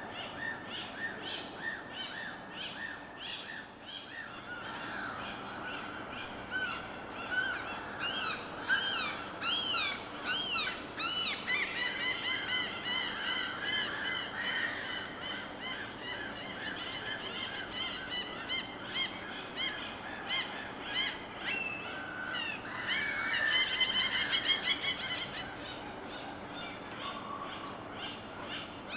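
Several birds calling and chirping over a steady wash of water. There are quick arched chirps, then runs of repeated trills, with a busier burst of calls later on.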